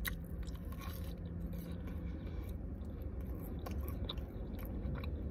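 A person chewing french fries close to the microphone, with scattered short mouth clicks, over a low steady hum.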